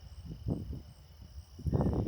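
Footsteps on a woodland trail, a run of soft thuds with the heaviest near the end, over a steady high insect trill with a faint pulsing note above it.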